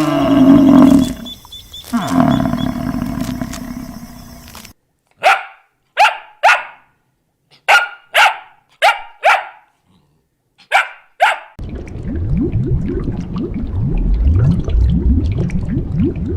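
Animal sound clips in sequence: a long, low pitched call with a short break in it, then a dog barking nine times in quick groups, then a rough, low growling rumble about two-thirds of the way through.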